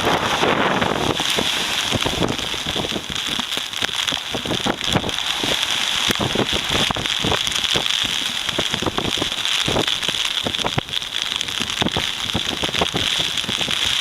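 Typhoon rain falling hard, with dense drops ticking close by over a steady hiss. A gust of wind buffets the microphone at the start and eases off about a second in.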